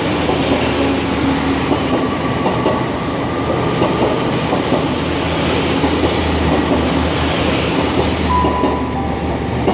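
A train running past close by: a steady rumble of wheels on rail over a low engine drone, with a short high wheel squeal about eight seconds in.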